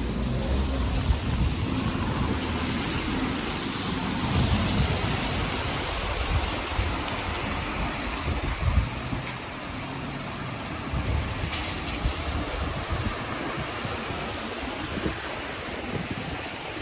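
Wind buffeting the microphone in irregular low gusts, over a steady rushing noise.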